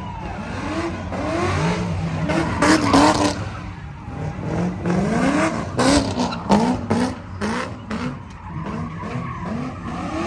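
A truck engine revved hard over and over, its pitch climbing in short repeated rises, with tyre-squeal noise and sharp cracks, typical of a burnout.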